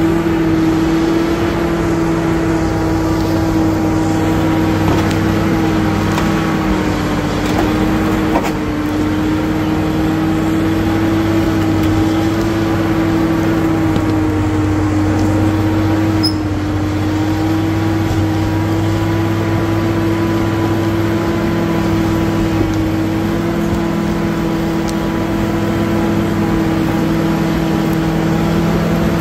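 Caterpillar D7G bulldozer's diesel engine running steadily under work, its note dipping briefly twice, about a third of the way in and about halfway.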